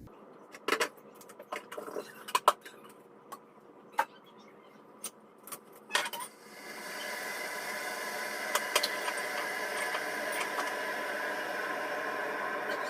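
Kitchen handling sounds: scattered clinks and taps of dishes and cutlery, then from about halfway a steady whirring noise with a few held tones that cuts off suddenly just after.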